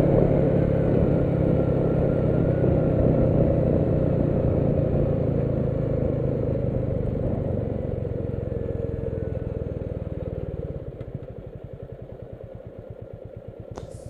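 Royal Enfield Meteor 350's single-cylinder engine running flat out near its top speed of about 125 km/h. About ten seconds in, the throttle closes and the engine falls to a quieter, slow, even thudding as the bike slows.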